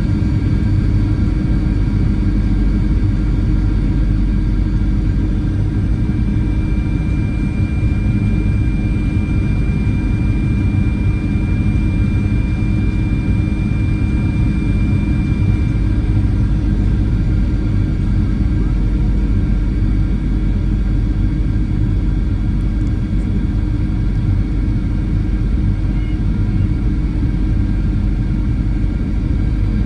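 Steady loud rumble of a Boeing 737-800 in flight, jet engines and airflow heard from inside the cabin. A faint high whine is held for about ten seconds partway through.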